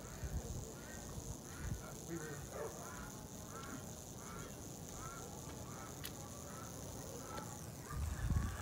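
A bird calling over and over, short rising-and-falling calls about twice a second, over a steady high hiss. Low bumps near the end come from the camera being handled.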